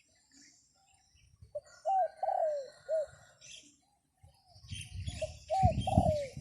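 A dove cooing two identical phrases of four notes each, one starting about one and a half seconds in and the other near the end, with the third note of each drawn out and falling. From about four and a half seconds in, wind rumbles on the microphone, and small birds chirp faintly in the background.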